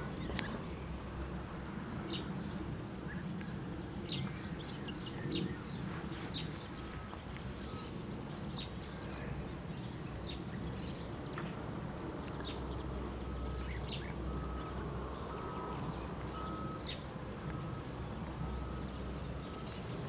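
Evening outdoor ambience of short, sharp, high bird chirps coming irregularly, with a faint soft whistled note repeating about once a second in the second half. A steady low rumble runs underneath.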